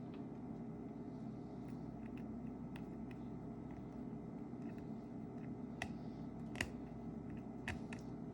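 Small, sharp clicks and taps of tools and small parts being handled during a phone repair, a few scattered ones, loudest near the middle and toward the end, over a steady low background hum.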